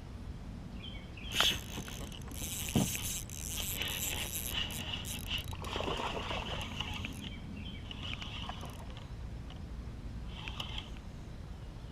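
Knocks and rattling in a plastic fishing kayak as a hooked bass is landed and handled: two sharp knocks about a second and a half apart, then a few seconds of rattling and rustling.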